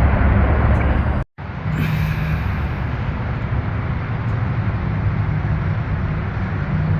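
Steady road traffic and vehicle noise, a continuous low rumble. The sound cuts out completely for an instant about a second in, then carries on as before.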